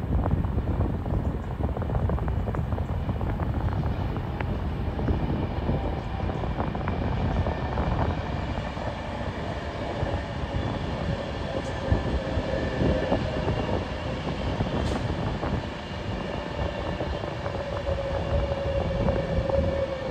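Avanti West Coast passenger train running through the station. There is a steady low rumble of wheels on rails, and a steady whine builds up over the second half as the train draws alongside.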